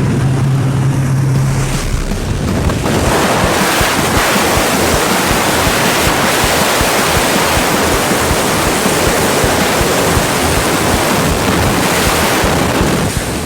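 A steady aircraft engine drone at the open door, then, from about two seconds in, a loud, steady rush of wind over the microphone in skydiving freefall.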